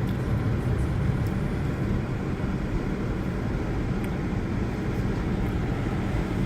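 Steady low outdoor rumble, like traffic noise or wind on the microphone, with a few faint ticks.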